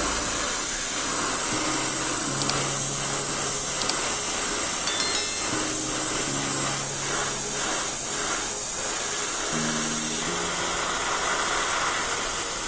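Steady hiss of paint being sprayed onto model car parts, running without a break. Quiet background music plays underneath.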